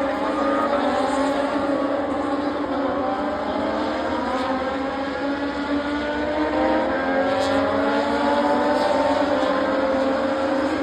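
Racing motorcycle engines running on the circuit: several engine notes overlap, slowly rising and falling in pitch as the bikes accelerate and shift.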